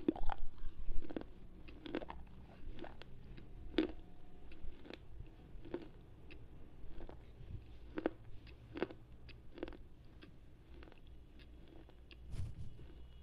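Slate pencil being bitten and chewed close to an earphone microphone: irregular sharp crunches, loudest and closest together in the first second or so, then sparser.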